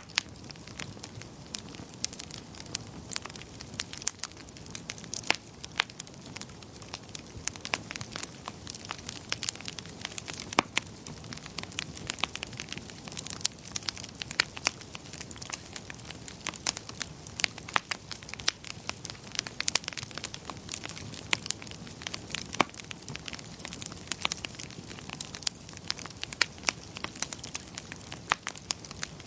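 Wood fire crackling steadily in a fireplace: a low rushing of flames under many sharp, irregular pops and snaps.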